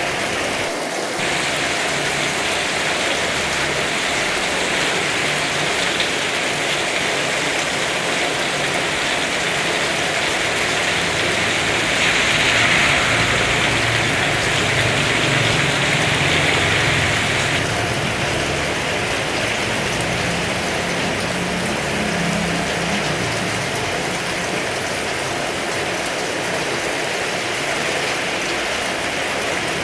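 Heavy rain pouring steadily, a continuous hiss that swells for several seconds around the middle. A faint low hum runs beneath it for a while.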